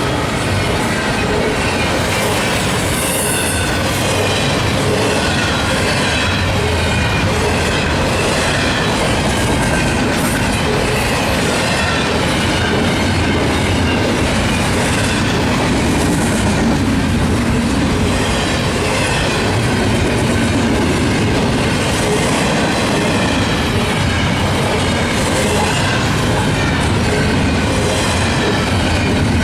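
Canadian National intermodal freight train's cars rolling steadily past, wheels clattering over the rails with faint high squealing from the wheels.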